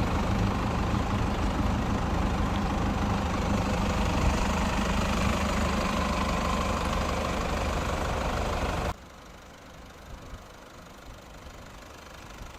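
Toyota Land Cruiser Prado's 3-litre inline-four turbodiesel idling steadily. About nine seconds in, the sound drops suddenly to a much lower level, and a faint hum remains.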